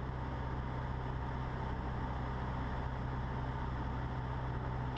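Cessna 150's Continental O-200 four-cylinder engine droning steadily in flight, heard inside the cockpit.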